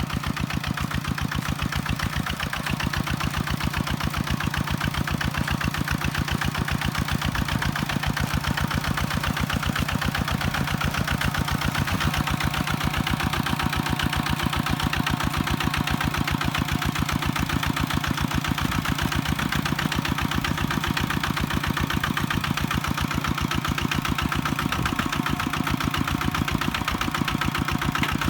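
Kubota tractor's diesel engine running steadily, with fast, even firing pulses and no change in speed.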